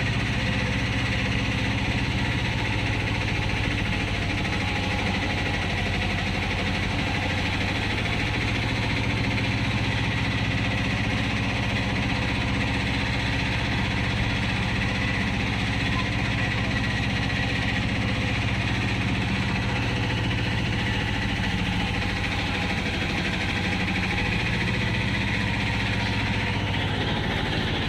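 Steady mechanical hum and rumble of a train, even and unchanging throughout.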